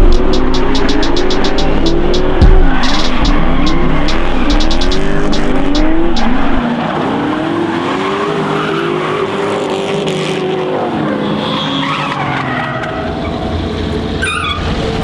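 Drift car engine revving up and down again and again under throttle, with tyres squealing and skidding. Backing music with a beat plays over the first half and cuts off about six seconds in.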